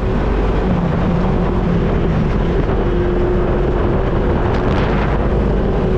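Off-road vehicle engine running steadily, with wind noise on the microphone; loud and even throughout.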